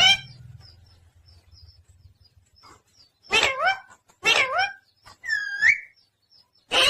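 Pet talking parrot calling: a loud cry at the start, then after a pause a run of short, harsh, pitched calls about a second apart, with one rising-and-falling whistle among them.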